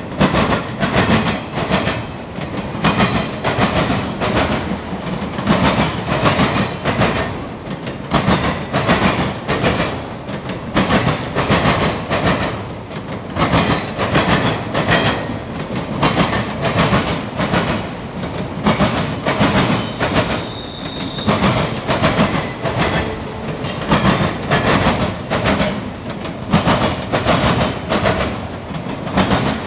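Autorack freight cars of a Norfolk Southern train rolling past, the wheels clicking over rail joints in a steady repeating rhythm.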